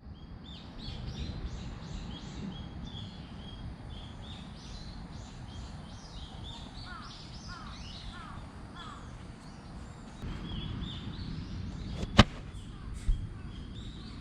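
Birds chirping and calling over a low steady rumble, with a few lower falling calls in the middle. A single sharp click about two seconds before the end.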